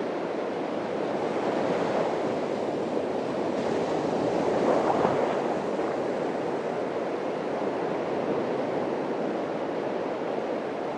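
Atlantic surf breaking and washing on a beach: a continuous rush of water that swells to its loudest about five seconds in, then settles back.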